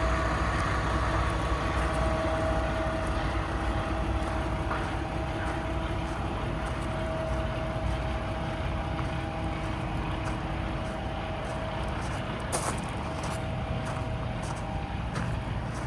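Peterbilt 579 tractor's Paccar MX-13 diesel engine idling steadily, with a brief click about three-quarters of the way through.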